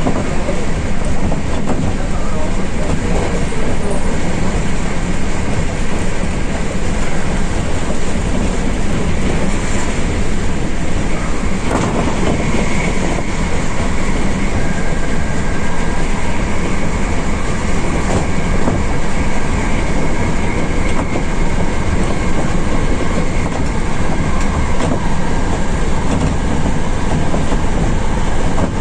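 Hankyu limited express electric train running along the line, heard from inside the front car: steady rolling and wheel noise with an occasional clack of rail joints. A faint steady high tone joins in about halfway through.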